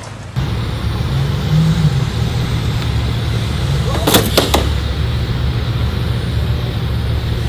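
A car engine idling with a steady low rumble. A brief sharp, high sound cuts in about four seconds in.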